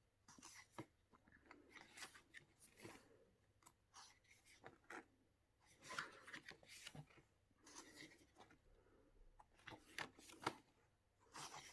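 Faint rustling and soft clicks of photobook pages being turned and handled by hand, in irregular bursts.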